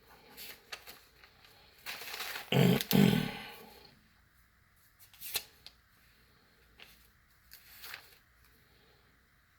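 Small die-cast model cars being handled and set down: scattered light clicks and scrapes, with two louder knocks and a rustle about two and a half to three seconds in.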